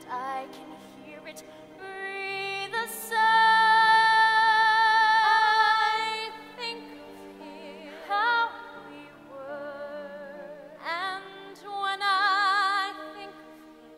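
Female voice singing a slow stage ballad, with wide vibrato on long held notes over a soft instrumental accompaniment.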